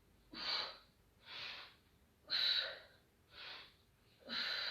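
A woman breathing hard through a core exercise: about one breath a second, stronger breaths alternating with softer ones, five in all.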